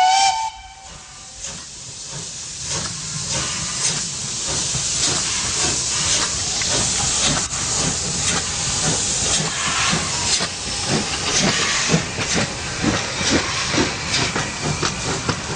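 Steam locomotive's whistle cutting off about half a second in, followed by a steady hiss of steam with a run of short exhaust beats that slowly grows louder.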